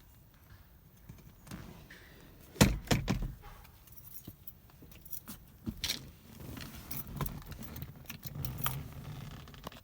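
Keys jangling amid a string of sharp clicks and knocks, with one loud thump about two and a half seconds in.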